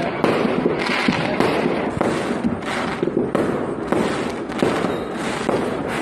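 Fireworks going off in quick succession: a dense, overlapping run of bangs and crackling.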